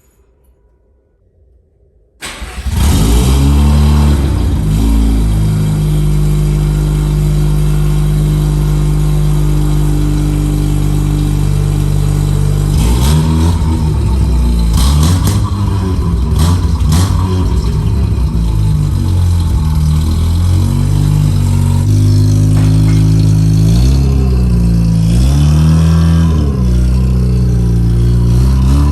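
Mazda RX-7 FC's 13B rotary engine coming in suddenly about two seconds in and running steadily, then revved up and down several times in the second half. It is being run to test a freshly fitted fuel pump meant to cure a misfire.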